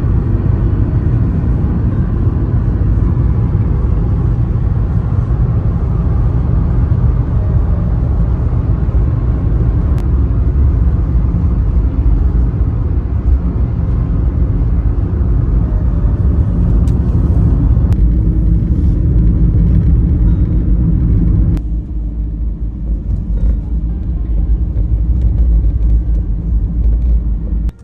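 Steady low road rumble of a car driving at speed; it drops somewhat quieter about three-quarters of the way through.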